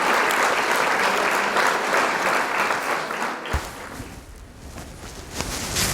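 Steady rain falling, a dense even patter that drops away about three and a half seconds in, leaving a quieter low rumble.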